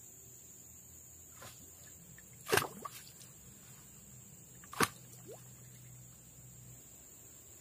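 Two sharp knocks about two seconds apart, with a few softer ticks, over a steady high-pitched hum.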